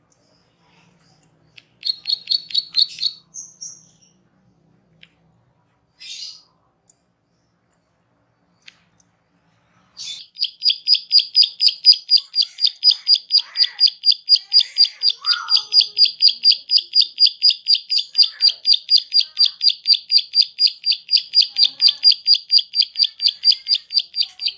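A songbird singing a rapid high trill of evenly repeated notes. A short burst comes about two seconds in and a few faint chirps follow. About ten seconds in, a long steady trill starts at roughly five notes a second and carries on to the end.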